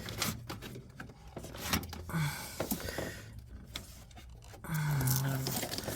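Rubbing, scraping and light clicks of hands working a hood release cable through the car, with a brief low hum about five seconds in.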